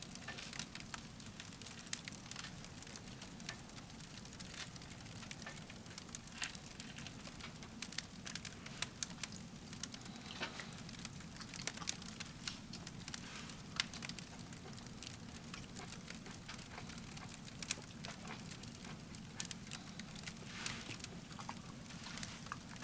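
Firewood crackling in a titanium wood stove, with irregular sharp pops and snaps scattered throughout.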